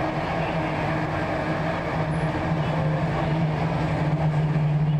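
Interior running noise of a Korean-built Hyundai Rotem East Rail Line electric train travelling through the cross-harbour tunnel. It is a steady rumble with a low hum that grows a little stronger over the last second or two.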